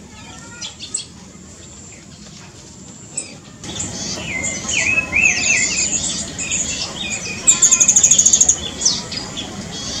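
Birds chirping and calling, faint at first and much busier from about four seconds in, with a fast, very high trill a little before the end.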